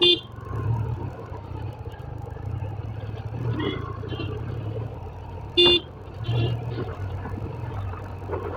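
Motorcycle riding through town traffic with a steady engine and road hum, its horn giving two short loud beeps, one right at the start and one about five and a half seconds in, with fainter horn beeps from nearby traffic in between.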